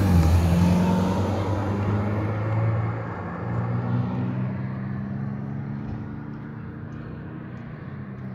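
Car engine running with a steady hum. Its pitch dips briefly at the start, then it fades gradually.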